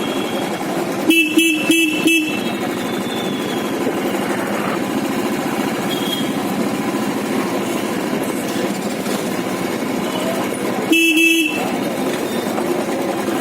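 A vehicle horn sounding four short beeps in quick succession about a second in, and one longer beep near the end, over the steady running of a motorcycle engine and road noise.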